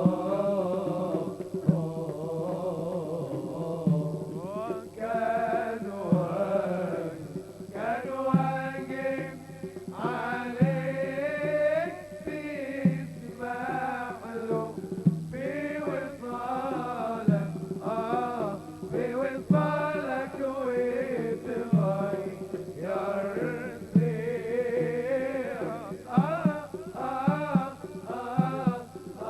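Live Arabic wedding music: a wavering, heavily ornamented melody over a steady sustained drone, with regular drum strokes underneath.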